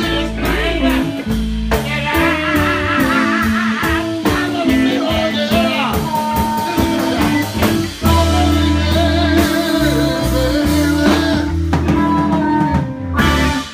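Live blues band playing, with guitar lines bending and wavering over sustained bass notes and a steady drumbeat.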